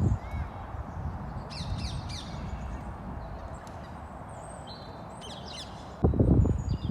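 Birds chirping in short, high, quickly falling notes, in two clusters, over a steady low background hiss. About six seconds in, a loud low rumbling noise starts.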